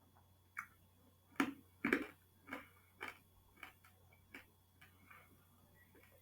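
Scattered sharp clicks, one or two a second at uneven spacing, a few in close pairs, the loudest about one and a half to two seconds in: keys or buttons being pressed at a computer.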